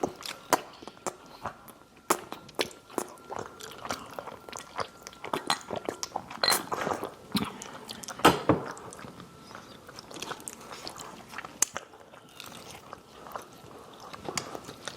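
Close-up eating sounds: biting into and chewing crispy fried chicken, with irregular crunches and wet mouth clicks, the loudest bite about eight seconds in.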